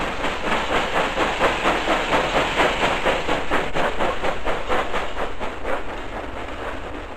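Steam locomotive working hard, its exhaust chuffing in a fast, even rhythm of about four beats a second, with a steady hiss of steam.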